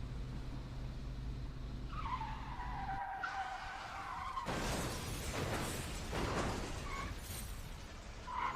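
Car crash sound effect: a car engine runs steadily, tyres squeal about two seconds in, then a loud crash with shattering glass hits at about four and a half seconds, with high tinkling near the end.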